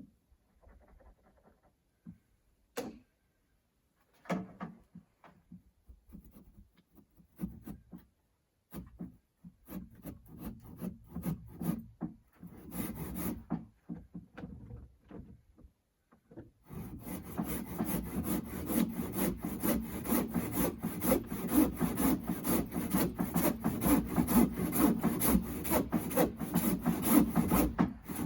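Scattered knocks and handling of wood, then, from a little past halfway, a hand saw cutting wood in quick, steady back-and-forth strokes.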